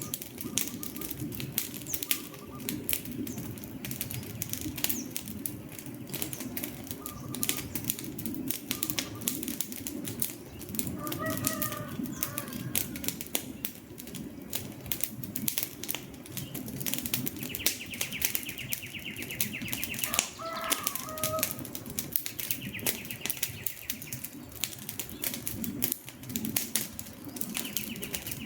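Campfire crackling steadily, with dense pops and snaps of burning wood over a low rumble of flames. A chicken clucks briefly a couple of times, near the middle and about two thirds of the way in.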